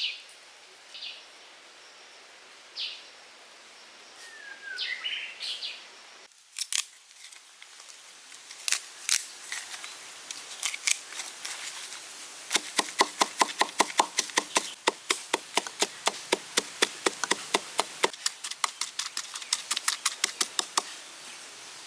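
A series of sharp taps or knocks: scattered at first, then from about twelve seconds in a quick, regular run of about three or four a second, each with a short ring. The run stops about a second before the end.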